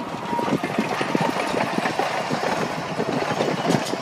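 Narrow-gauge railway carriages rolling past on the track, their wheels clicking and clattering in a quick, uneven run of knocks over a steady rumble.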